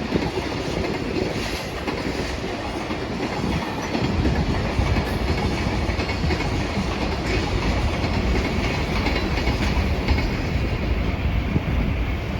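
JR Freight freight train's wagons rolling past at speed, a steady loud rumble with rhythmic wheel clatter over the rail joints.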